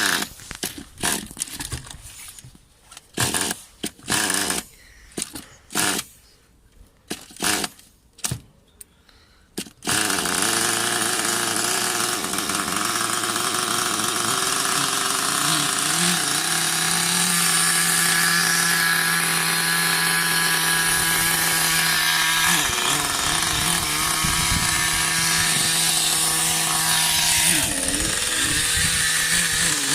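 Small Thunder Tiger 15 Pro nitro engine of an RC car being pull-started: a series of short, uneven pulls. About ten seconds in it catches and keeps running steadily with a high, buzzing note, its pitch dipping briefly twice near the end.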